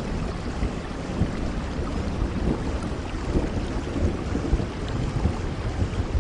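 Steady rainfall: a dense, continuous patter of drops with most of its weight low down.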